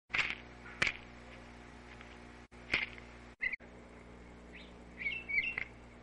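Backyard songbirds calling: several sharp chip notes and a short run of whistled notes near the end. A steady low hum runs underneath, and the audio drops out briefly a few times.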